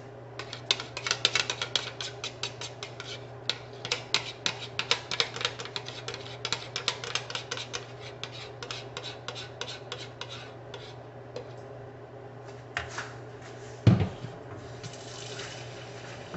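Pancake batter being stirred in a bowl, the utensil clicking rapidly against the bowl's sides for about ten seconds, then stopping. A single loud knock follows a few seconds later, over a steady low hum.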